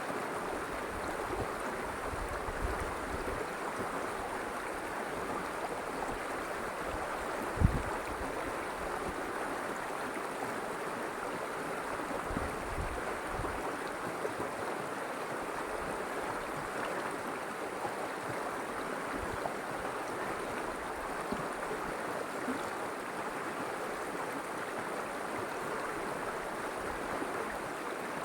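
River water flowing in a steady, even stream. There is a brief low thump about eight seconds in.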